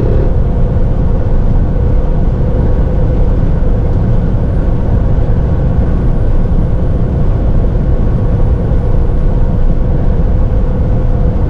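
Steady, loud low rumble of a moving vehicle heard from inside it, with a faint steady hum and no changes.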